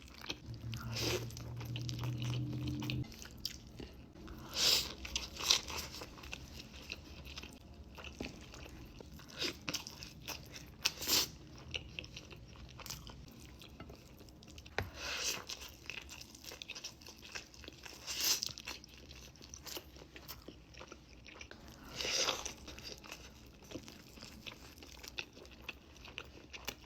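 Close-miked eating: biting and chewing, with a crisp crunch every few seconds. A low steady hum runs through the first three seconds.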